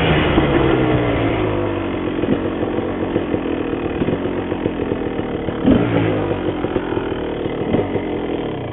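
Honda CR250R's two-stroke single-cylinder engine under throttle as the dirt bike is ridden, coming in suddenly loud with its note falling over the first two seconds, then running steadily.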